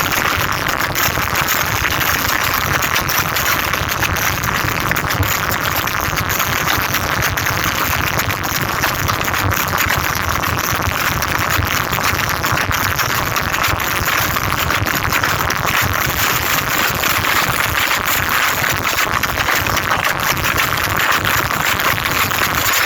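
Two rival sound systems playing music at full volume at the same time in a sound-off battle. The result is a continuous, dense, distorted din with no clear tune.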